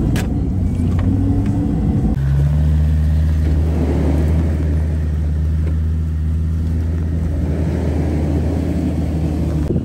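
Off-road 4x4 engine running. For about two seconds it is heard from inside a Jeep's cabin. After a sudden cut it becomes a steady low drone as the vehicles crawl along a snowy track.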